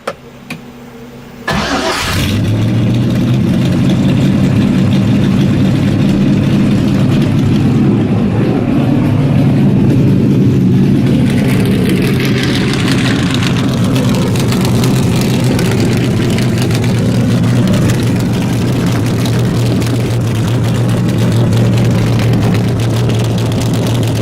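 LS1 V8 engine in a BMW E30 firing up through its newly welded exhaust about a second and a half in, catching suddenly and settling into a steady idle, its note wavering briefly around the middle.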